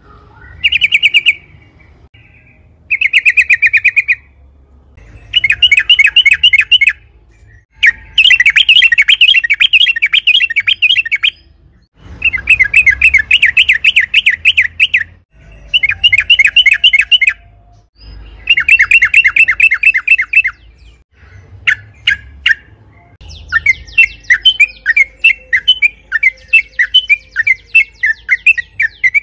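Yellow-vented bulbul (trucukan) singing in repeated bursts of fast, rapid notes, each a second or two long with short pauses between, breaking into a continuous rapid chatter near the end.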